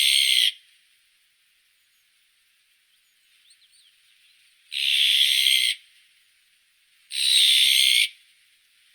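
Azure-winged magpie giving three harsh, rasping calls of about a second each: one at the start, one about five seconds in and one about seven seconds in. Faint short chirps come between them.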